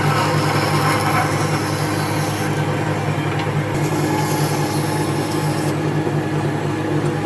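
A power tool running steadily with a constant motor hum, its higher hiss shifting a few times as it works.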